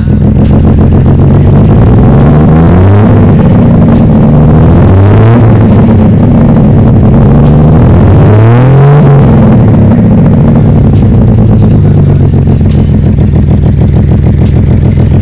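1967 Chevrolet C10 pickup's engine running loudly and steadily, revved up and back down a few times, mostly around the middle.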